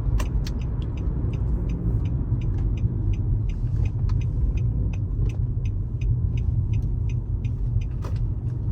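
Car engine and exhaust rumbling steadily from inside the cabin while driving, with faint clicks several times a second. The exhaust sounds raspy after debris from running over a dead deer lodged up under it.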